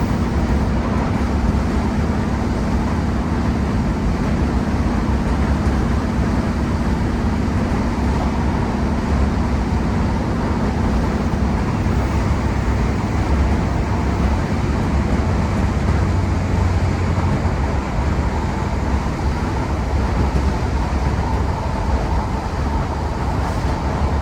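Class 150 Sprinter diesel multiple unit's underfloor Cummins diesel engine working hard under power, with rail running noise underneath. A steady low drone runs through the first half and fades about halfway through while the low rumble carries on.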